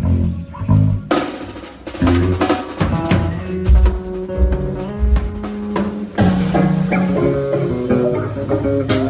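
Live band playing through the PA during a sound check. Low bass notes play alone at first, then about a second in the drum kit with kick, snare and cymbals comes in with chords over the bass. Around six seconds in the cymbals turn brighter and steadier.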